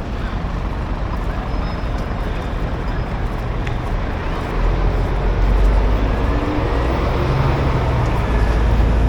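Street traffic, with a low engine rumble that gets louder from about four and a half seconds in as a vehicle draws near.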